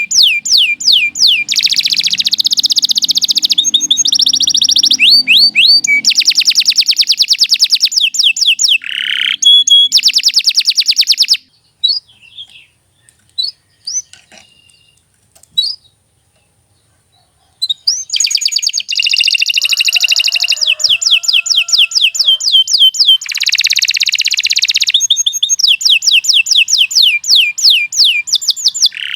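Domestic canary singing loudly in long, fast trills of rapidly repeated notes. About eleven seconds in it breaks off for some six seconds with only a few single chirps, then launches back into rapid trills.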